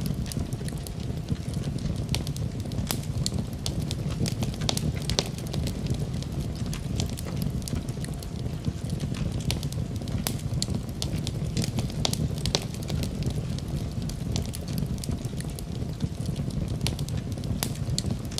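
Campfire burning: a steady low rumble of flames with many irregular sharp crackles and pops of burning wood.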